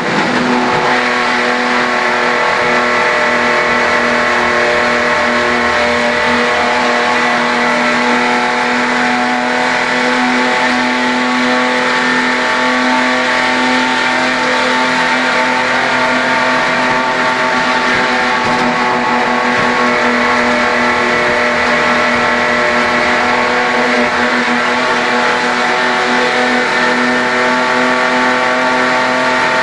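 Holden HQ race car's straight-six engine heard from inside the cabin, running hard at a nearly steady pitch throughout.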